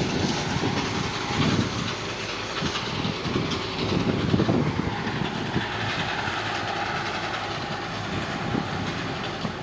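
Train running on the rails, with irregular clattering and knocks from the wheels over the track, loudest midway and easing slightly near the end.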